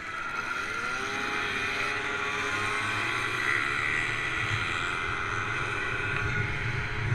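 Motorcycle engine accelerating, its pitch rising over the first couple of seconds and then holding high, over steady road and wind noise.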